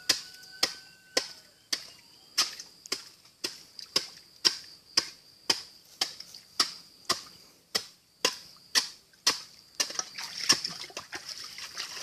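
Sharp knocks repeating evenly about twice a second: the strange sound heard while digging a hole for a fish pond. A faint high hiss runs under them and grows a little near the end.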